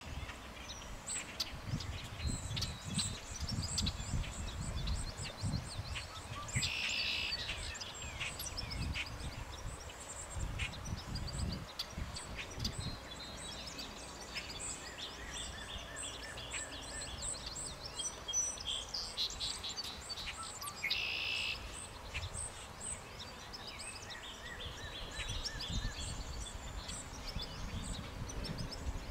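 Songbirds chirping and trilling on and off, with two louder buzzy phrases, one about a quarter of the way in and one about two-thirds in, over a steady low rumble.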